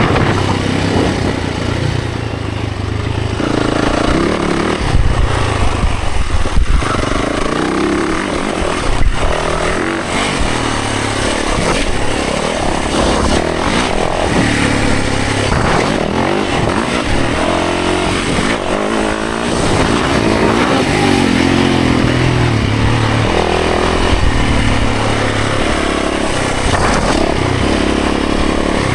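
Dirt bike engine running hard on a trail ride, its pitch climbing and dropping again and again as it revs up and through the gears, with a few sharp knocks and clatter.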